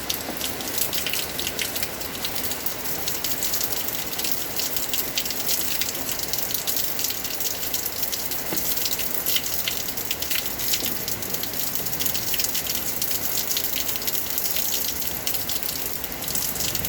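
Heavy rain falling steadily, with a constant rush and many separate drops pattering sharply on a hard surface.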